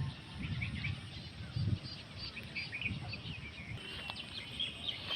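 Small birds chirping in short repeated notes, with a thin, steady high note joining about four seconds in, over soft low bumps.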